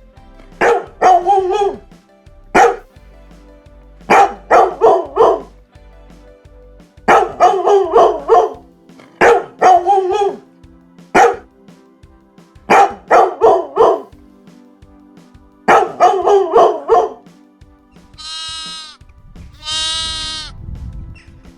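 Dog barking in bursts of two to five quick barks, about a second or two apart. Near the end, a sheep bleats twice with a wavering call.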